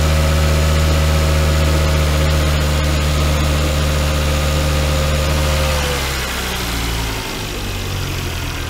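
Volvo S60's inline five-cylinder engine idling just after being started, with the coolant system refilling. It runs steadily, then its speed drops and settles lower about six to seven seconds in.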